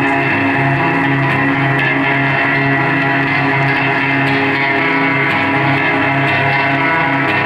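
Live amplified band music led by guitar, playing steady, held notes over a pulsing low bass note, with no singing.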